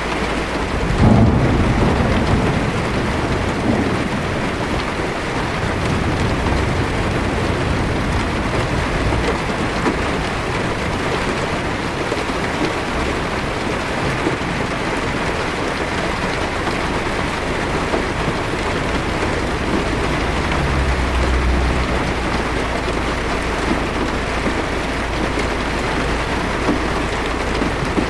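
Heavy rain pattering steadily on a car's windshield and roof, heard from inside the car. Low thunder rumbles about a second in, and more faintly around twenty seconds in.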